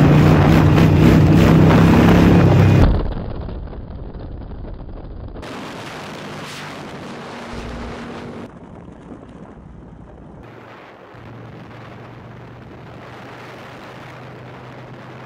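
Harley-Davidson Sportster's air-cooled V-twin engine running under way, with heavy wind buffeting on the microphone. About three seconds in the sound drops off sharply to much quieter engine and wind noise.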